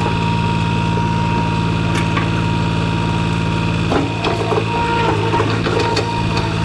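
Skid steer engine running steadily at idle. About four seconds in, the engine's low note drops and a run of metallic clanks and knocks starts over it.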